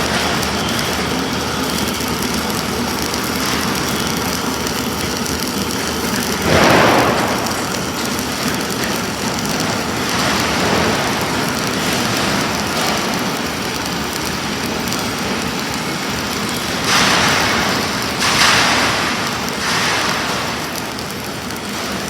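Self-shielded flux-core (Innershield NR305) arc welding on structural steel, a steady crackling arc. It swells louder about seven seconds in and twice again near the end.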